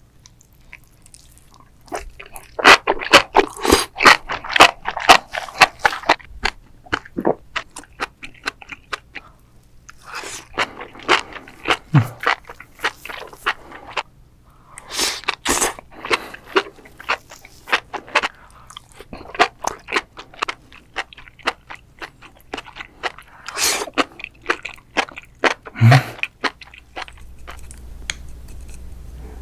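Close-miked chewing of sauced enoki mushrooms: crisp, crunchy bites and wet chewing come in bursts of a few seconds, with short pauses between them.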